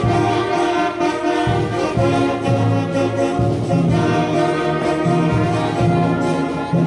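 Primary school wind band playing: brass and woodwinds holding full chords over a bass line that changes notes every half second or so.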